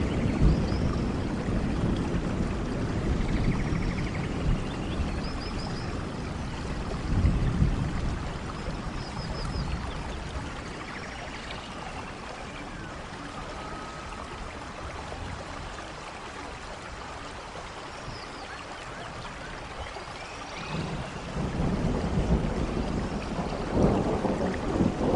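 Steady rain with rolling thunder: low rumbles at the start and again about seven seconds in, quieter in between, then swelling back near the end. Faint high chirps sound now and then over the rain.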